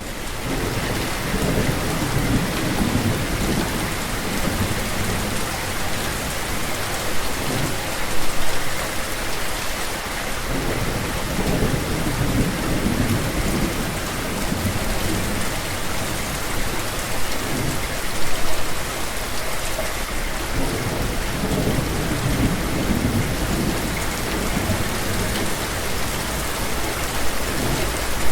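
Steady rain, with low thunder rumbling in and out about three times.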